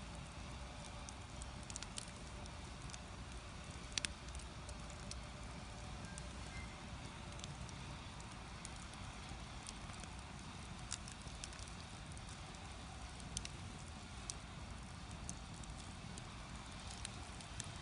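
Firewood burning in a traditional Korean agungi firebox, a steady hiss of flames with scattered sharp crackles and pops, the loudest pop about four seconds in.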